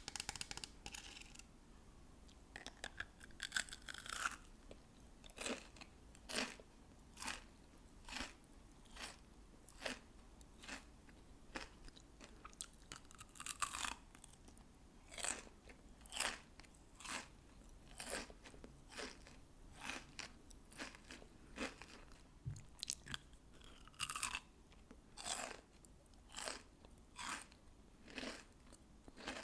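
Crystal candy being bitten and chewed close to the microphone, with crisp crunches about once a second.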